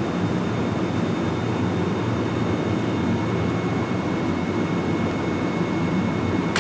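Keihan 7000 series electric train standing at the platform, its onboard equipment giving a steady hum with a thin high whine over it. A sharp click near the end.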